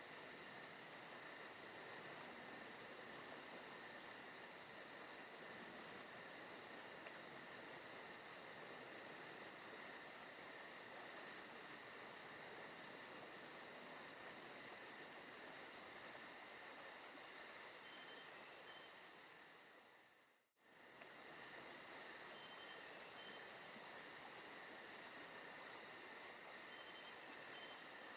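Forest ambience of crickets chirping steadily at low volume, a fast even trill over a constant hiss. About twenty seconds in it fades out for a moment and comes straight back.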